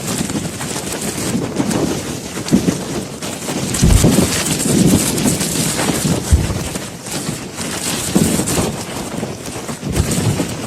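Strong wind gusting across the microphone: a loud, rough rushing with irregular low buffeting thumps, strongest about four, six and ten seconds in.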